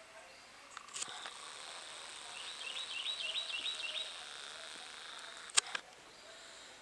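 A bird calling: a quick run of about seven high chirps, about four a second, over a faint steady outdoor hiss. Two brief clicks, one about a second in and one near the end.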